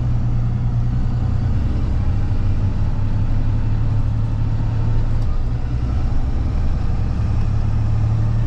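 Box truck engine running with a steady low drone, with even road and traffic noise underneath.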